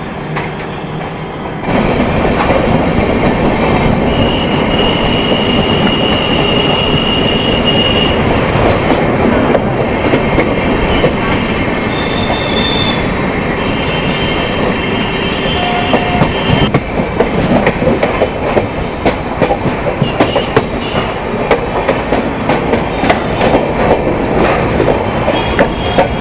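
Passenger express train running on the rails, its wheels giving a steady clickety-clack that gets suddenly louder about two seconds in. High wheel squeals come and go in the middle, and the later part has many sharp clacks over the rail joints.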